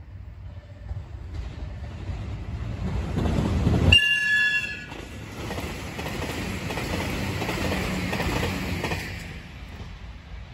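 Express train approaching and passing at speed, with a rising rumble and wheel clatter that fades after about nine seconds. About four seconds in, as the train reaches the camera, the driver gives a short horn blast as a courtesy greeting to the trackside watcher.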